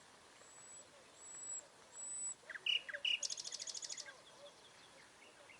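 Songbird singing: a few thin, very high whistles, then a handful of short notes and a fast, even trill lasting about a second, over a faint steady background hiss.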